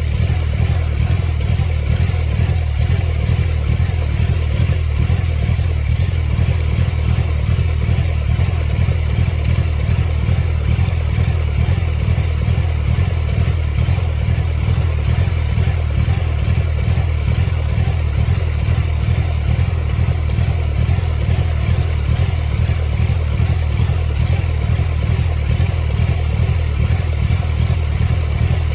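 1999 Mercedes-Benz C230 Kompressor's supercharged four-cylinder engine running steadily at one speed, with an even, fast low pulse. The car has a serious engine fault that flashes its check engine light.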